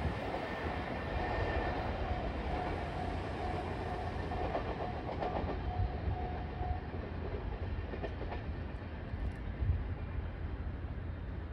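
A six-car JR Kyushu 817 series electric train running away down the line, its wheels rumbling on the rails and fading into the distance. A steady high tone rides over the rumble and stops about seven seconds in.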